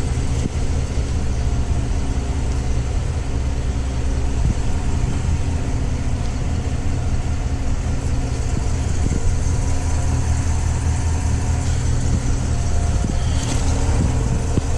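2025 Chevrolet Tahoe High Country SUV's engine idling steadily with a low, even hum.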